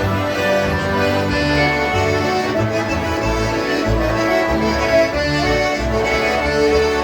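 Concertinas playing a polka together in a jam, with sustained reedy chords and melody over a bass line that moves in a steady beat.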